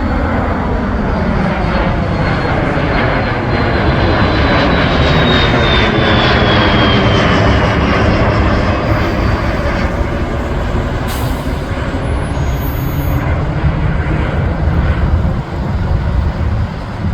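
Aircraft taking off and passing by, its engine noise loudest around the middle, with a high whine that slides down in pitch as it goes past.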